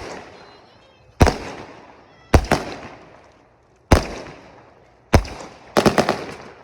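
Fireworks going off in a series of sharp bangs, each with an echoing tail: four spaced roughly a second or more apart, then several in quick succession near the end.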